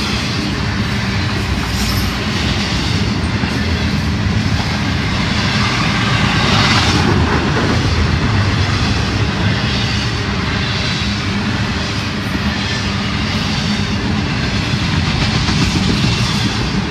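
Intermodal freight cars of a Florida East Coast Railway train rolling past close by: a steady rumble and rattle of steel wheels on the rails.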